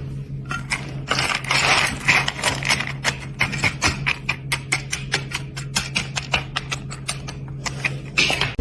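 A rapid, uneven run of sharp clicks, a few each second, over a steady low hum.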